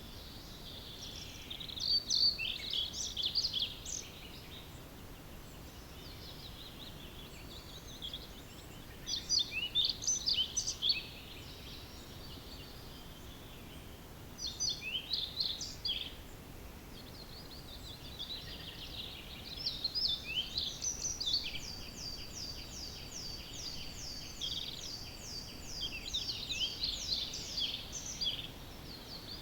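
Songbirds singing in an early-morning chorus: short bursts of song every five or six seconds, then a long run of quickly repeated notes through the second half.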